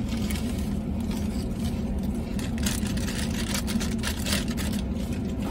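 A vehicle's steady low hum heard from inside the cab, with crunching of baked potato chips and crinkling of the chip bag from about two and a half seconds in.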